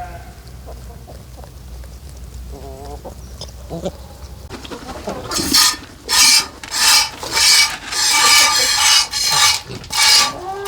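Repeated rasping, scraping strokes, about two a second, starting about five seconds in, after a few short animal calls.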